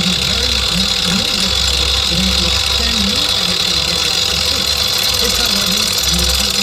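A shop machine running steadily with a loud, even mechanical hum, with a faint voice half-buried underneath it.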